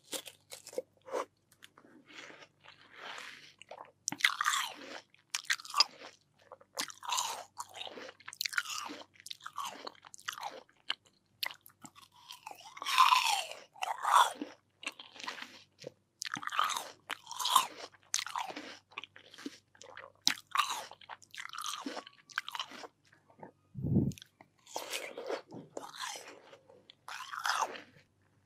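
Close-miked chewing of crisp, juicy watermelon: repeated wet crunches and bites in an uneven run, with a dull low thump near the end.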